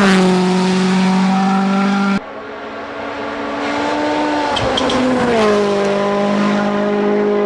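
Rally1 rally cars' turbocharged four-cylinder engines held at high revs, flat out. An abrupt cut about two seconds in switches to another car, whose engine note rises slightly and then drops about two-thirds of the way through.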